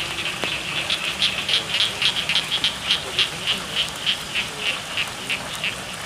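A frog calling in a long, even series of short high notes, about three to four a second, over the steady patter of rain.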